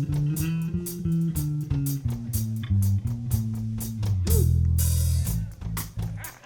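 Live soul band vamp: an electric bass plays a stepping line of notes over a drum kit, with a held low note and a cymbal wash about four seconds in.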